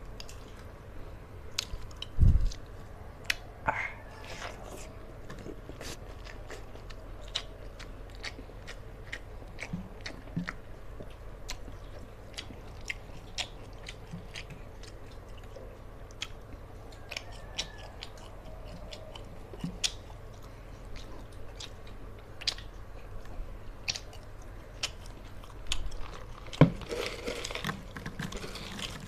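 Close-up chewing and crunching of fried fish and rice eaten by hand, with frequent wet mouth clicks and smacks. A dull thump about two seconds in, and near the end a clatter of crackers tipped from a plastic jar onto the paper.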